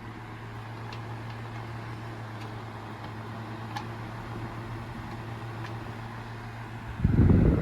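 Holmes Lil' Blizzard oscillating desk fan running on high: a steady motor hum with a few faint ticks. About seven seconds in, the oscillating fan's airflow reaches the microphone as a sudden loud wind rumble.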